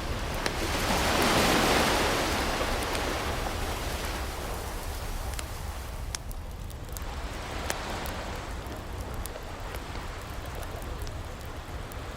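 Ocean waves washing in, one big surge swelling about a second in and easing away, a smaller one around seven seconds, under the scattered crackles and pops of a wood fire.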